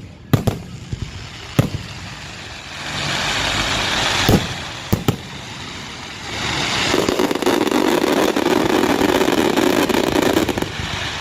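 Fireworks going off: several sharp bangs in the first second or two and again around the middle, between two longer stretches of steady rushing noise.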